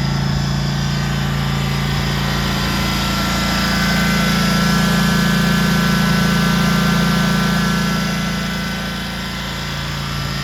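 Gasoline engine of a SCAG V-Ride II stand-on zero-turn mower running steadily. A whine swells louder from about a third of the way in and eases off near the end.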